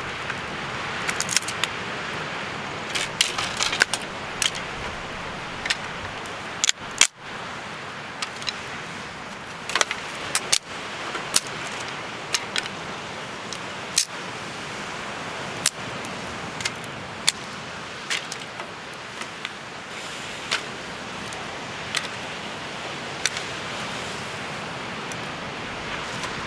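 Wood campfire crackling: a steady hiss with sharp, irregular pops and snaps scattered throughout.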